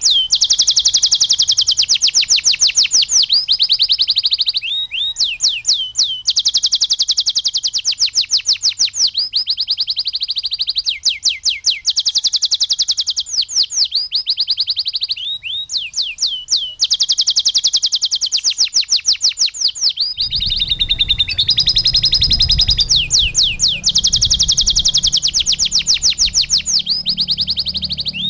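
Canary singing continuously in long runs of rapid, evenly repeated high trills, switching to a new roll every second or few. From about two-thirds of the way through, a low background sound joins beneath the song.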